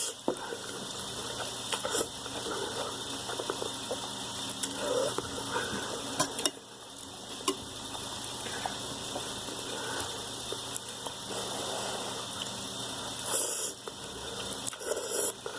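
A person eating ramen noodles: soft slurping and chewing with a few light clicks of utensils against the bowl, over a steady background hiss.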